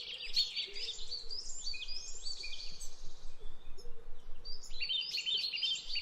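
Small birds chirping, many short high calls overlapping one another. The chirping thins out around the middle and grows busy again near the end.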